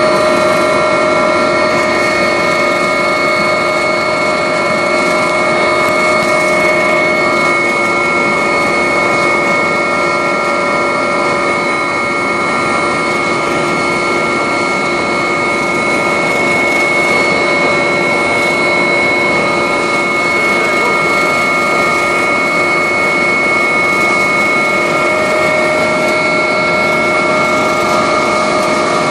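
Agusta helicopter's turbine engines and rotor heard from inside the cabin: a loud, steady rush with several steady whining tones over it.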